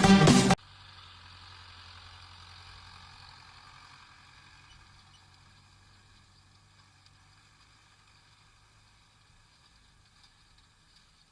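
Electronic music cuts off abruptly, leaving a faint, steady engine hum, most likely a tractor working the hay baling, that slowly fades away.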